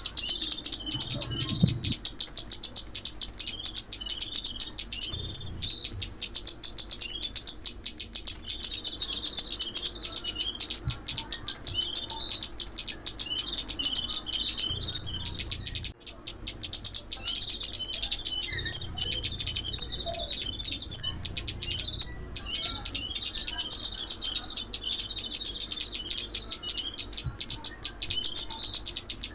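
Crimson sunbird calling: a continuous run of rapid, high-pitched chips and twittering, with a thin held whistle through the first half.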